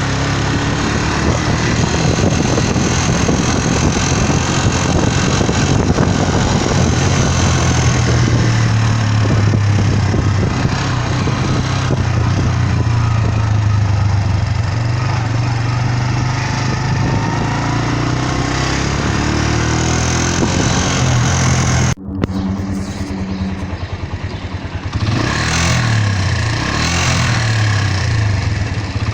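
Suzuki EN 125 motorcycle engine held at raised revs for about twenty seconds. It breaks off suddenly and runs lower, then is revved up and down again near the end. Above about 4300–4500 rpm the owner hears a vibration followed by a fairly sharp metallic noise whose cause he has not found: the valves have been adjusted, and the timing-chain tensioner still has adjustment left.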